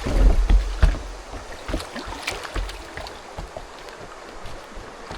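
Kayak paddling on a creek: paddle strokes and water splashing, with scattered sharp knocks throughout and a few heavy low thuds in the first second.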